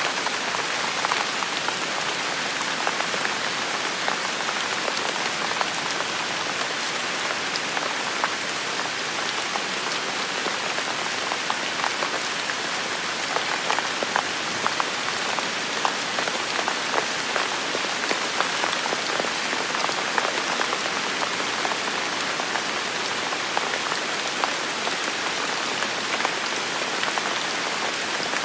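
Heavy rain falling steadily in a forest, a dense hiss of rainfall with many individual drops pattering close by.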